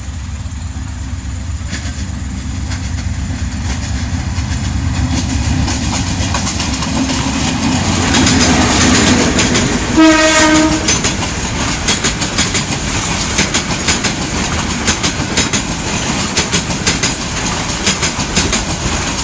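A Bangladesh Railway diesel-hauled passenger train approaching and passing. The locomotive's low rumble builds up, then a single horn blast of about a second sounds about halfway through and is the loudest moment. After it the coaches' wheels clickety-clack steadily over the rail joints.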